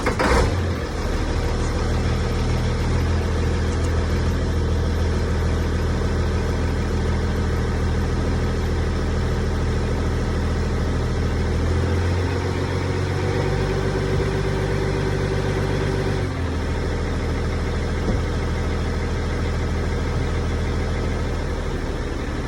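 Caterpillar diesel engine in a Kenworth T800 truck firing up on a cold start and settling into a steady idle. The idle pitch rises for a few seconds past the middle, then drops back.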